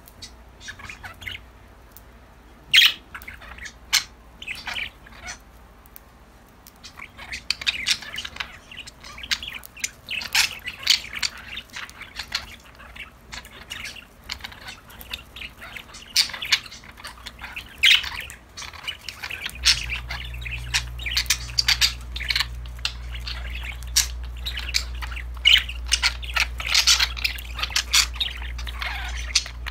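Several budgerigars chirping and squawking: a few scattered calls at first, then a busy chatter of overlapping chirps from about seven seconds in. A steady low hum comes in about two-thirds of the way through.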